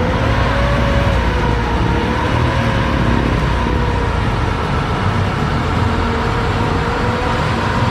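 Off-road 4x4 vehicle's engine running at fairly steady revs, with a steady whine that drifts slightly in pitch over a low rumble.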